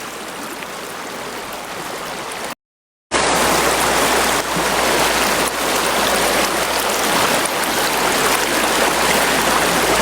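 River water flowing, a steady rushing wash. It cuts out to dead silence for a moment about two and a half seconds in, then comes back louder.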